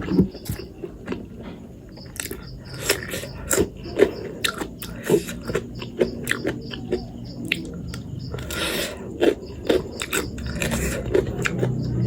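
Close-miked eating of spicy instant noodles: chewing, with many irregular wet mouth clicks and scrapes. A longer, louder noisy burst comes about nine seconds in.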